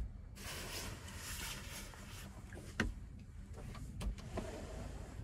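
Tofaş car engine idling through an aftermarket Konya exhaust, a steady low hum. A hiss runs over the first second or so, and two sharp knocks come near the middle.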